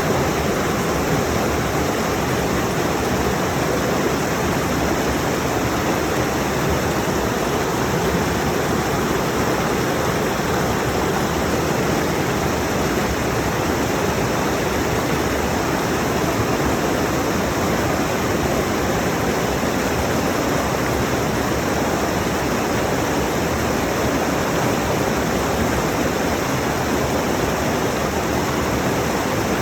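Rushing mountain stream: a steady, unbroken rush of water over rocks, close to the recorder.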